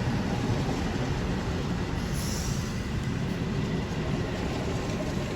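Electric commuter train running through the station: a steady rumble of wheels on the rails, with a brief high hiss about two seconds in.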